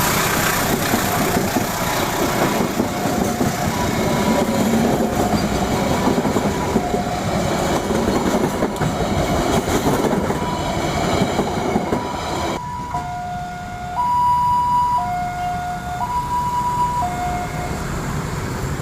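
Passenger train cars rolling slowly over a level crossing with wheel clatter on the rails, under a two-tone level-crossing warning alarm. The train noise cuts off abruptly about two-thirds of the way through, leaving the alarm alternating between a lower and a higher tone about once a second.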